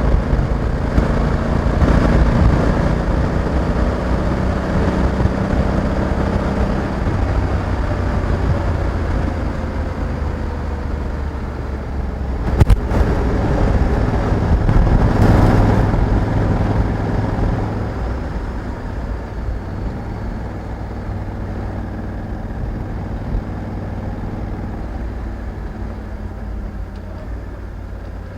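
Honda Africa Twin 1100 DCT motorcycle's parallel-twin engine running on the road. There is a sharp click a little before the middle, the engine swells shortly after, and it settles quieter over the last third.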